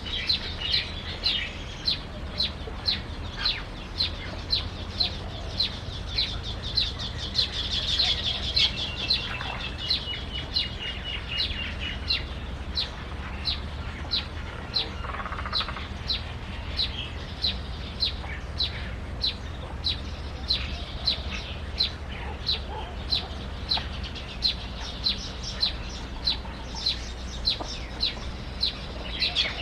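A bird chirping over and over, short high downward notes at an even pace of about three every two seconds, with one longer whistled note about ten seconds in, over a low steady rumble.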